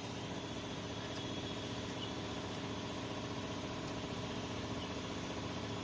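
A motor running steadily with a continuous mechanical hum and a faint high whine.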